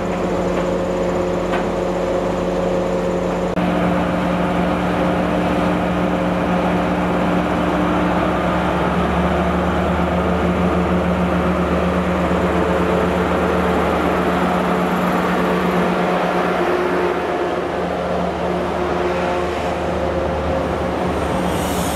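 GWR HST Class 43 power car's diesel engine running steadily as the train rolls slowly along the platform and its coaches pass, with rail rumble. The first few seconds, before a cut, are a loaded steel-coil freight train's wagons rolling past.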